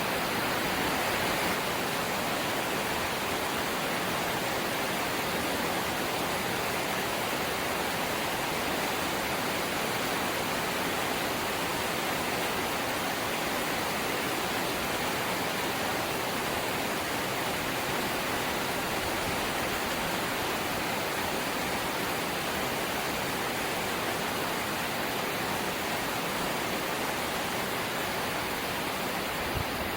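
Heavy rain falling steadily on a corrugated zinc (seng) roof: a dense, even hiss with no breaks or let-up.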